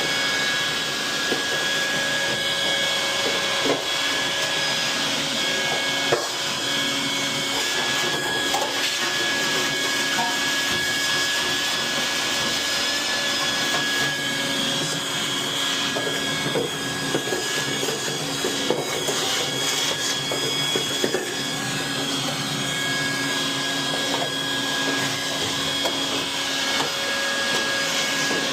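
A steady machine whine with a few steady tones, with scattered light clicks and knocks over it.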